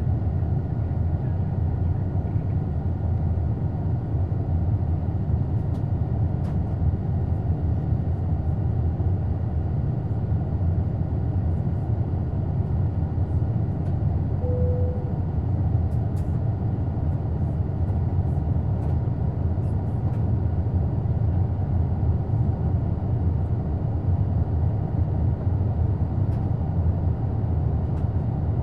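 Steady cabin noise of an Airbus A220 in flight: the even roar of its Pratt & Whitney PW1500G geared turbofan engines and the airflow over the fuselage, heard from inside the cabin. A short single tone sounds once, about halfway through.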